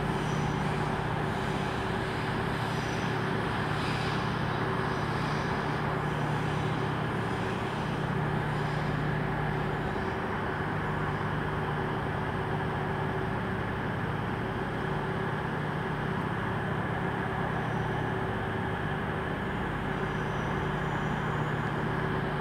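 A train standing at the platform, running with a steady hum and a low drone and no change in level.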